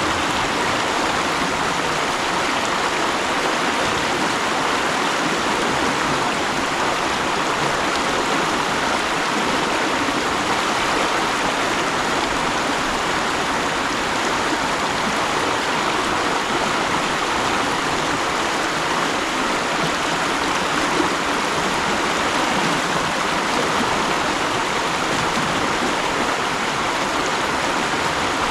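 Mountain stream rushing and burbling over rocks, a steady, even flow of water.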